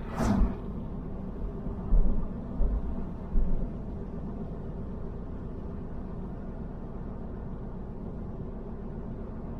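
Steady road and engine rumble heard from inside a moving car. A brief hissing sweep comes right at the start, and a few low thumps follow between about two and three and a half seconds in.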